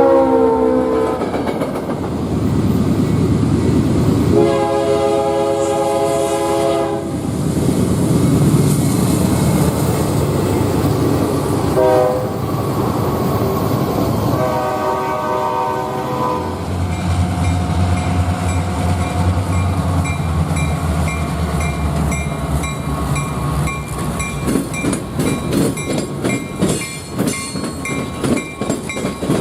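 Train locomotive's multi-note horn sounding blasts in a long, long, short, long sequence, the grade-crossing signal, as the train approaches. After the horn, the locomotive rumbles past and the wheels clack rapidly over the rail joints.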